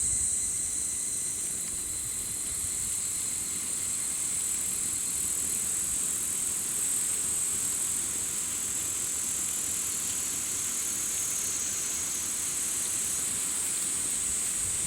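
Summer insect chorus: a steady, shrill, high-pitched buzz that never lets up. A fainter, thinner tone from another insect fades out within the first few seconds.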